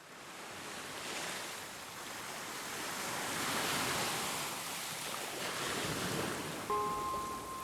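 Sea waves washing onto a beach, a steady surf noise that slowly swells and eases. Near the end, a few sustained music notes come in over it.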